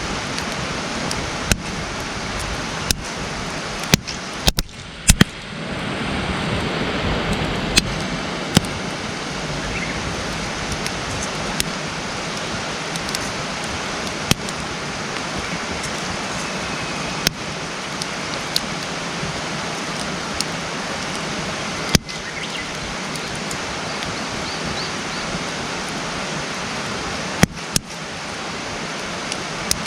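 Wood campfire burning: a steady hiss of flames with sharp pops and crackles at irregular moments, about a dozen in all.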